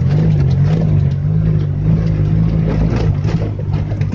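Engine of a homemade buggy built from an Oka car pulling hard at steady high revs as it drives over rough ground, with scattered knocks and clatter from the body.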